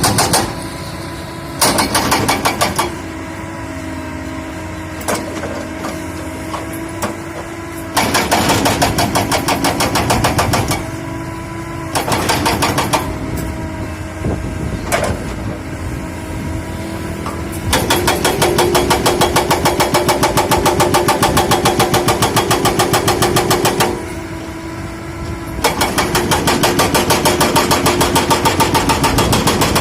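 Excavator's diesel engine running steadily, broken by several stretches of several seconds of fast, even, loud clattering strokes.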